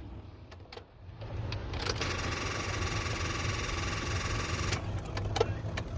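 Ford Transit van making an electrical buzzing chatter for about three seconds over a low steady rumble, with a few sharp clicks; the owner puts the noise down to a low battery.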